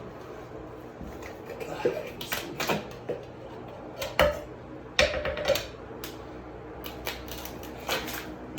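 Irregular clicks, crinkles and short rasping pulls of hands handling ducting and sticky tape, over a steady low hum.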